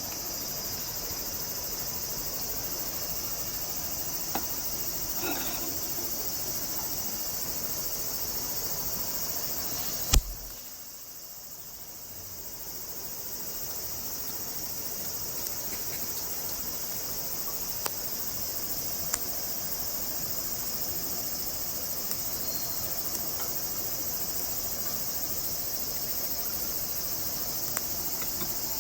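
Steady, high-pitched chorus of summer insects. A single sharp knock about ten seconds in is followed by a few seconds in which the chorus is quieter before it builds back.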